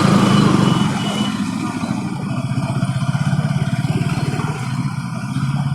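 Motorcycle engine running at low revs in slow traffic, a steady low note with a fast even pulse.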